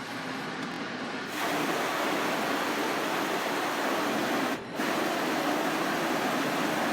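Automatic car wash machinery heard from inside the car: a loud, steady rushing noise that gets louder about a second in, with a brief drop about halfway through.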